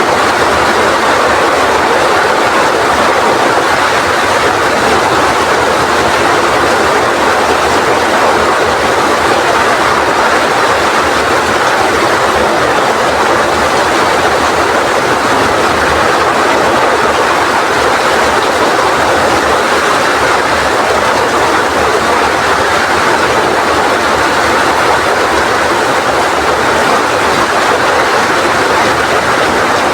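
Rain falling steadily in strong wind: a dense, even rush of noise with no let-up.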